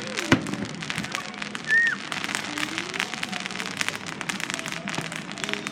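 Fireworks crackling: a dense, continuous patter of small pops, with a sharper bang just after the start and a brief high whistle about two seconds in.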